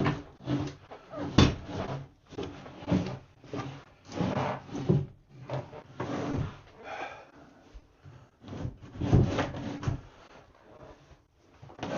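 Irregular knocks, bumps and scraping as a bathtub is shoved and worked into its alcove against the wood framing and floor, with a sharp knock about a second and a half in.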